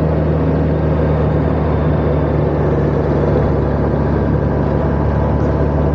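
Honda Gold Wing motorcycle riding along, its engine giving a steady, unchanging low hum under road and wind noise.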